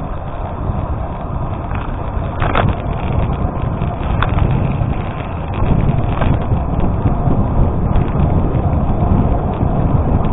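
Bicycle tyres rolling over a gravel road, with wind rushing over the microphone and a few sharp ticks from stones.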